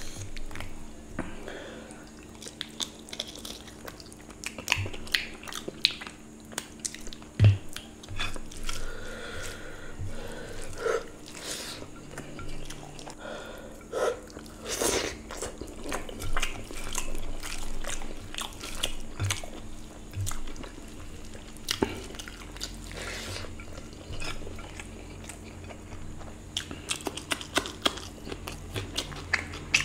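Close-miked eating of rice and curry: wet chewing and lip smacks, with the squish of rice and curry being mixed by hand, and one sharp knock about seven and a half seconds in.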